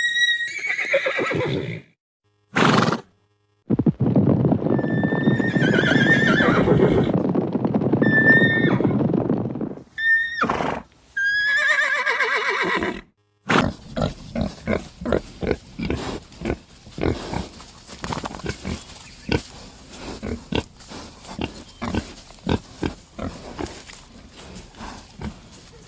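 Horse whinnying several times, each call falling in pitch, with a spell of rough noise behind the calls in the middle. In the second half a long run of irregular short clicks and knocks follows.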